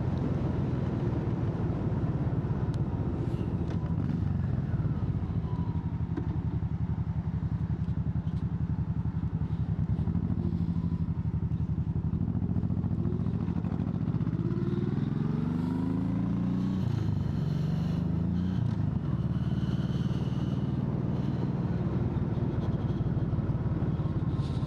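Motorcycle engine running under way. About two-thirds through, the engine note rises twice with a short break between, as the bike accelerates through a gear change, then settles back to a steady pitch.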